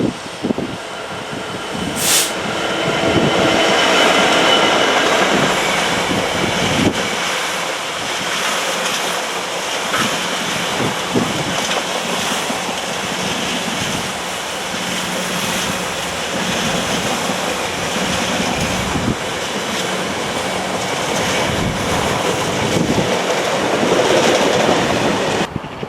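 A train passing on the line, its wheels running on the rails with a sustained rumble and a few steady ringing tones. It builds over the first few seconds, holds steady, then cuts off abruptly near the end.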